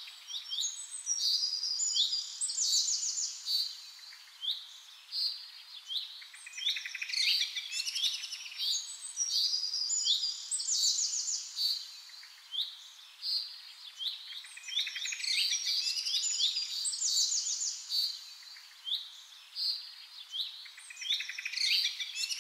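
Small birds chirping and twittering: many short, high chirps and quick trills in rapid, overlapping runs.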